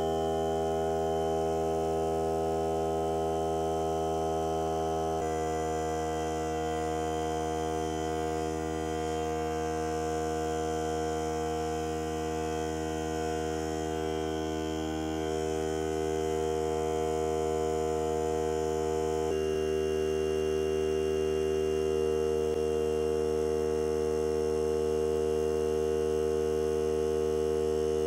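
Hart cordless air compressor running steadily with a constant hum as it pumps up its tank toward the 120 psi cut-out. Its tone shifts slightly about five seconds in and again around two-thirds of the way through.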